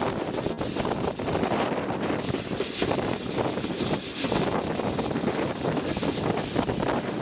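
Wind buffeting the microphone over the running noise of a moving train, heard from an open carriage window.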